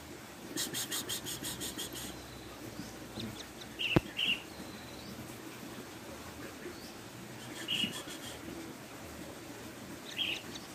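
Kingfisher chick calling: a rapid trill of short high pulses lasting over a second, then scattered single high chirps. A sharp click about four seconds in is the loudest sound.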